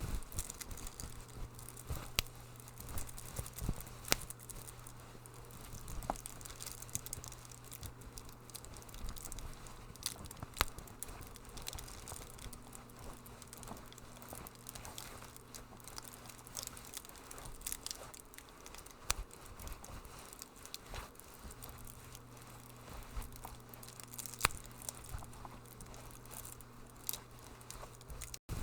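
Wood fire crackling in a fireplace: irregular sharp pops and snaps of varying loudness over a steady low hum.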